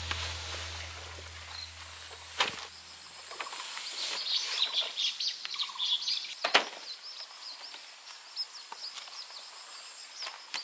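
Outdoor ambience: birds chirping in many short calls over a steady high insect buzz, with a couple of sharp knocks. Background music fades out in the first few seconds.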